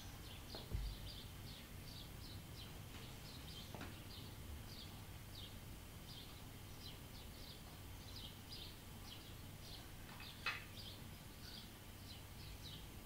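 Faint high chirps of small birds repeating a few times a second over a faint hiss, with a low knock about a second in and a sharper tap near the end.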